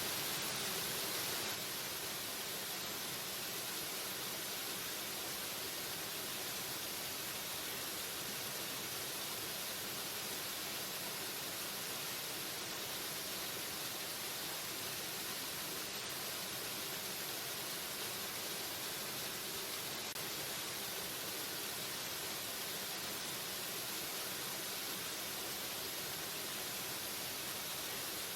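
Waterfall: a steady, even rush of falling water, a continuous hiss with no pauses, a little louder for the first second or so.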